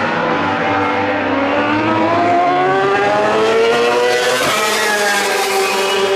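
MotoGP racing motorcycle engine at high revs, its pitch climbing steadily as the bike accelerates, with a gear change about four and a half seconds in.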